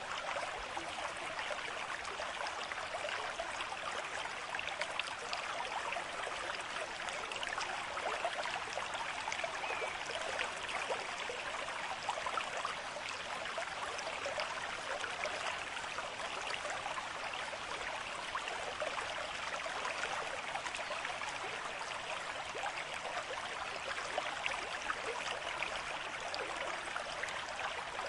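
Running water with a steady trickle and splash, like a small stream, that stays even throughout.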